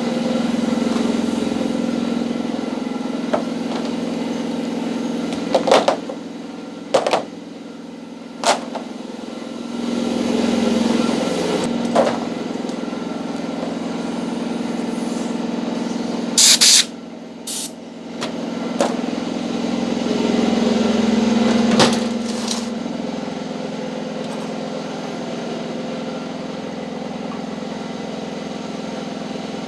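Electric motor running steadily, its hum swelling and easing as the load changes. Several sharp knocks and a short loud rushing burst come about sixteen seconds in.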